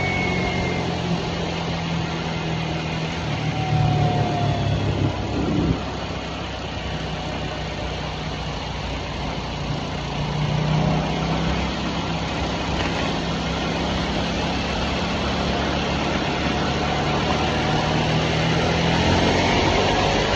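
2023 Harley-Davidson Nightster's 975 cc Revolution Max V-twin running at a steady cruise, with a constant rush of wind and road noise. The engine note swells about four seconds in, drops back near six seconds and picks up again around eleven seconds as the throttle changes.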